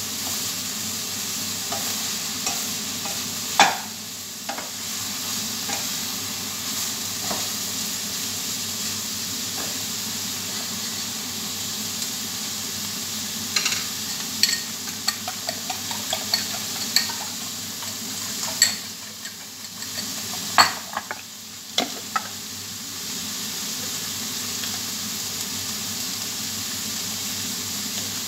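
Bitter melon (ampalaya) sizzling as it fries in a pan, a steady hiss with a spatula scraping and knocking against the pan now and then, the knocks most frequent in the middle.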